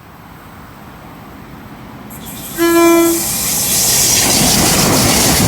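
NSW TrainLink XPT express approaching and passing at speed. Its power car sounds one short, steady horn blast about two and a half seconds in, and the loud rush of the train going by follows.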